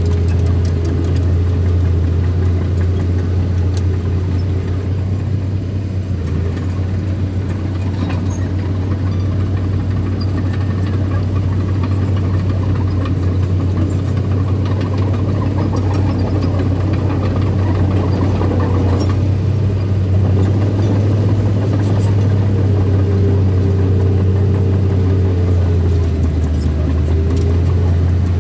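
Small bulldozer's diesel engine running with a steady, loud low hum while it works the soil, with a few faint clicks over it.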